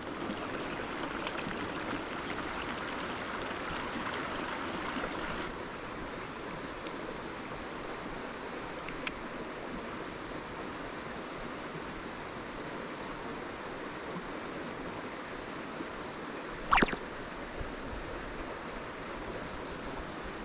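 Mountain stream running over rocks, a steady rush of water that drops a little in level about five seconds in. A single short, sharp click stands out late on.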